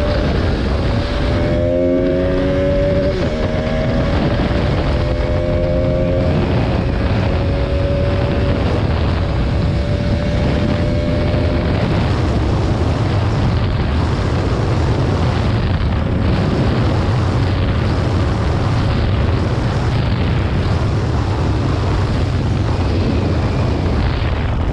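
Single-cylinder motorcycle engine accelerating hard, its note climbing and dropping back at each gear change in the first few seconds, then holding steady at cruising speed. Heavy wind rush on the microphone grows to cover it.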